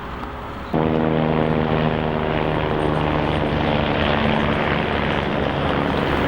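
A steady engine drone with a strong pitched hum over a rushing noise, cutting in abruptly about a second in and holding level.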